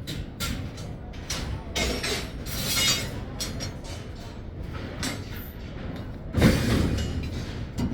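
Irregular mechanical knocks and clanks over a low rumble, with a louder heavy thud about six and a half seconds in.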